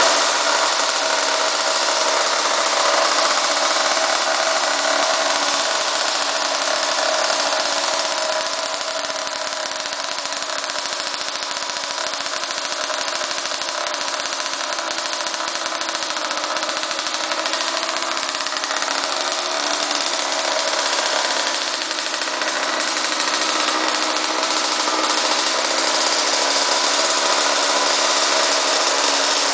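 The engine of a 50cc Cobra mini moto runs steadily, easing a little quieter for a few seconds about a third of the way in, then picking back up.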